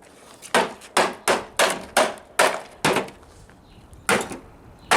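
Repeated heavy blows smashing a Memorex speaker: about seven quick strikes, then a pause and two more.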